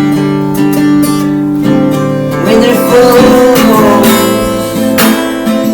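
Acoustic guitar strummed, with chords ringing on between strokes as accompaniment to a song.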